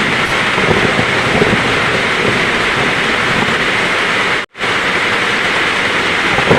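Heavy rain falling in a steady hiss, with a low rumble of thunder underneath in the first couple of seconds. The sound cuts out completely for a split second about two-thirds of the way through.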